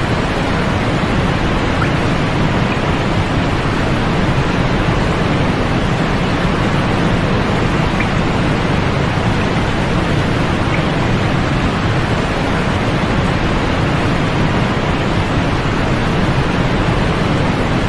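Steady, unchanging synthetic noise for sleep, fuller in the lows and mids and falling away in the high treble. There are no changes or separate events.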